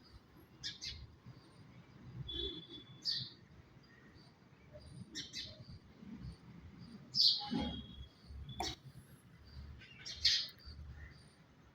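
Small birds chirping in short, separate calls every second or two, over a steady low rumble.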